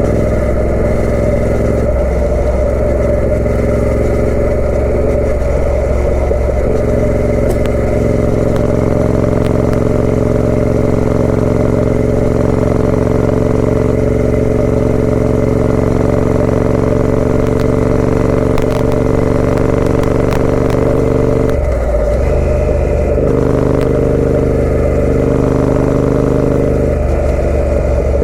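Triumph Speed Twin 900 parallel-twin engine through a British Customs aftermarket exhaust, riding under way. The engine note holds and slowly climbs through a long pull in the middle. It is broken by brief changes of pitch, gear shifts or throttle changes, early on, about 22 seconds in, and again near the end.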